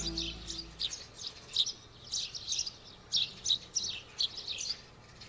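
Small birds chirping in quick runs of short high chirps, several a second. The last held note of a music track fades out in the first second.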